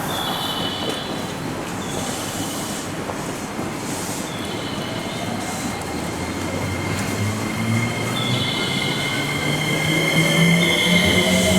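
Electric commuter train at a station platform, its wheels giving off short high squeals on and off. From about halfway through, a motor whine climbs steadily in pitch and grows louder as the train accelerates.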